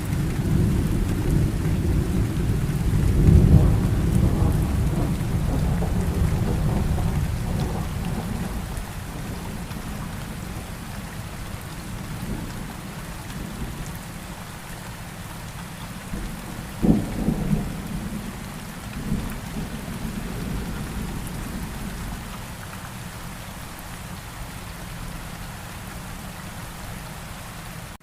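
Steady rain with rolling thunder. A long low rumble builds and fades over the first several seconds, and a sharp thunderclap comes about 17 seconds in, followed by a shorter rumble.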